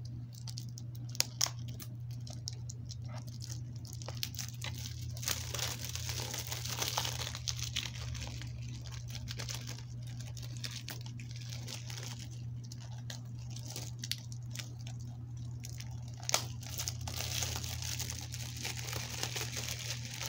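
Plastic shrink wrap being torn open and crinkled off a DVD case, with irregular crackling and sharp snaps.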